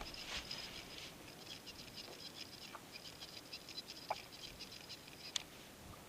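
Fishing reel paying out line as a jig drops, the spool giving a rapid, uneven run of fine ticks in spells, with a couple of sharper clicks about four and five seconds in.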